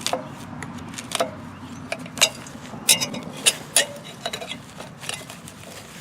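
Irregular sharp clicks and snaps of a hand tool cutting and prying at debris wrapped around a tiller's tines, with the loudest snaps around the middle.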